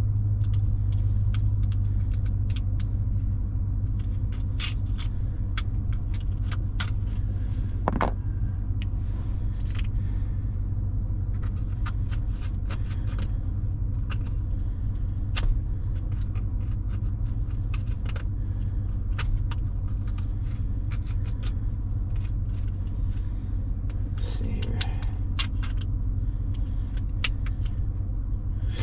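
Chevrolet Silverado's V8 idling steadily after a cold start. Scattered clicks and knocks of things being handled near the microphone are heard over it.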